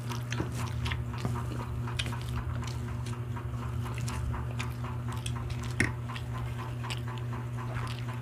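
Several people chewing grilled pork barbecue and rice, with many small irregular clicks and crackles of eating and one sharper click about six seconds in, over a steady low hum.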